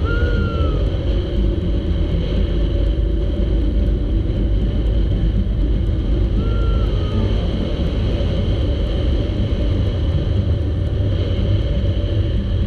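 Steady loud rumble of wind buffeting a camera microphone during a zip-line ride. Two short whistle-like calls that rise then fall come through it, one at the start and one about six and a half seconds in.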